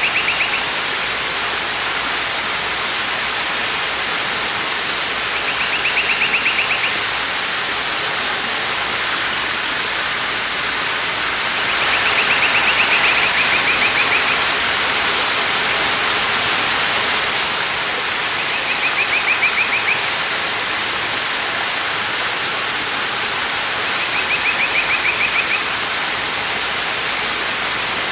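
Waterfall rushing steadily. Over it, a short high-pitched buzzy trill of rapid pulses repeats about every six seconds, five times.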